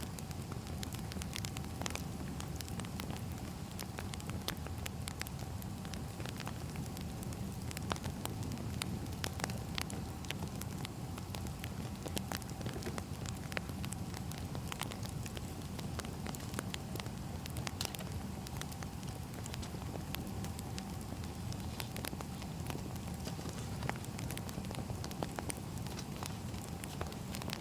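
Wood fire burning, with a steady low rumble and frequent irregular sharp crackles and pops from the burning logs.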